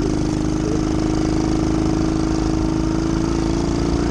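Dirt bike engine running steadily at an even pitch.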